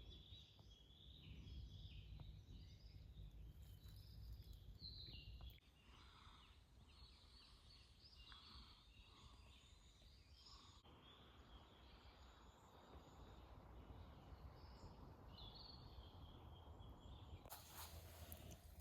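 Near silence: faint birds chirping and calling in short scattered notes over a low, steady background rumble, with a brief rush of noise near the end.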